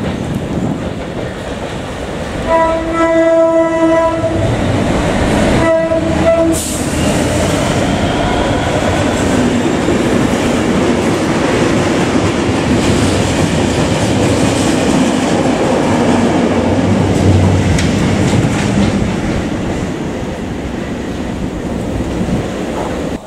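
Diesel locomotive hauling an engineering train sounds its horn twice, a blast of about a second and a half and then a shorter one. The train of loaded open wagons then runs through with a steady rumble, engine noise and wheels clattering over the rail joints.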